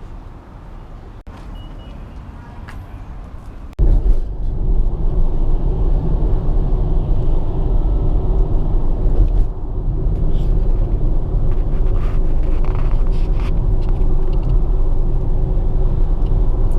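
A car on the move, heard from inside the cabin: a steady low rumble with a hum. It starts abruptly about four seconds in, after a quieter stretch.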